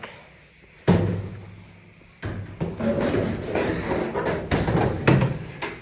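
A sharp metallic knock that rings on briefly, then a few seconds of clattering and scraping as dryer parts are handled and set in place.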